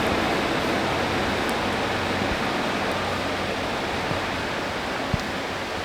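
Rain falling, a steady even hiss that eases slightly, with a single light knock about five seconds in.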